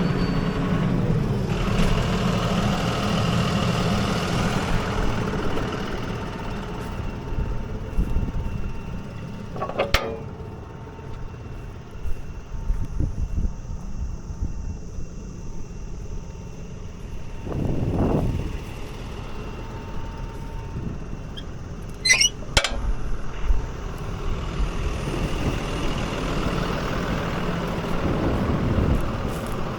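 CLAAS ARION 650 tractor's diesel engine running, heard from inside the cab. It is louder for the first few seconds, then eases off, swelling again twice. A sharp click comes about a third of the way in, and two more clicks follow a little past the middle.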